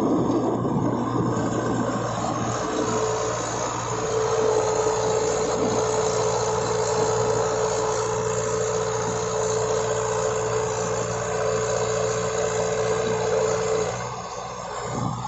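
Tractor diesel engine running steadily under load, with a thin steady whine over the engine note for most of the time; the level drops briefly near the end.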